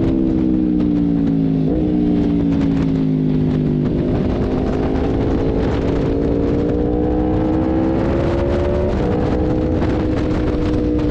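Sports motorcycle engine heard from on board on a race track, with a low wind rumble. The revs fall as the bike slows, with a jump in pitch about two seconds in at a downshift. They then climb steadily out of the corner and drop at an upshift about nine seconds in.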